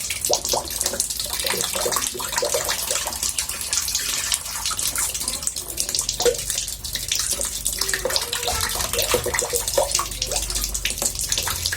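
Water splashing and trickling steadily in a bathtub, a continuous patter of many small splashes.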